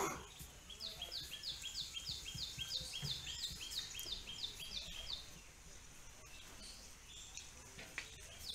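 A small bird calling a fast run of short, falling, high-pitched chirps, about four a second, which stops about five seconds in and starts again at the end. A single sharp knock right at the start is the loudest sound.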